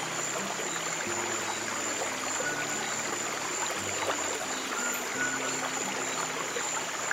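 Steady running water of a stream, flowing and trickling, with soft held low music notes underneath that change every second or so.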